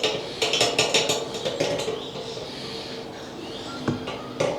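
Rapid clinks and clatters of hard objects knocking together, thickest in the first two seconds with a few more near the end, over a steady hum.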